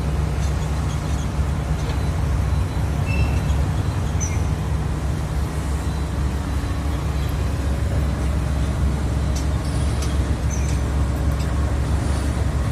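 Steady low drone of a motor vehicle's engine with road noise, unbroken and even throughout.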